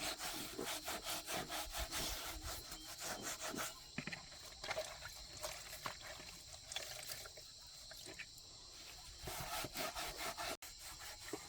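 Rapid, rhythmic hand scraping strokes, dense for the first few seconds, then slower and more scattered, as of scrubbing, filing or scraping a part clean.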